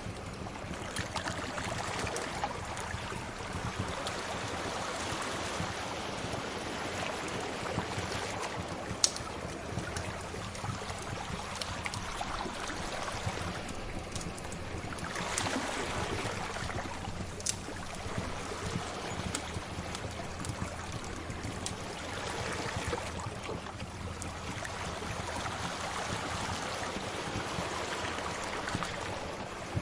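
Sea waves washing ashore, swelling and easing every several seconds, mixed with a crackling fire that gives an occasional sharp pop, the loudest about nine seconds in.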